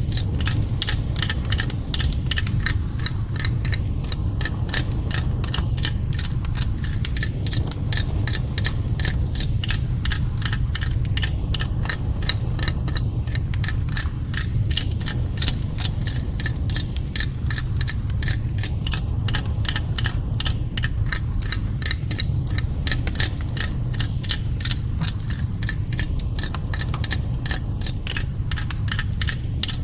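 Rapid, steady clicking and ticking over a continuous low rumble, the high sounds sweeping from side to side in a looping ambient soundscape.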